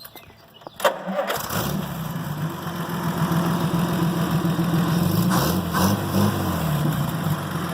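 A rebuilt Chrysler 251 flathead straight-six with dual exhaust starts: a click about a second in, a brief crank, and it catches at once, then runs steadily, its speed dipping and rising briefly near the middle.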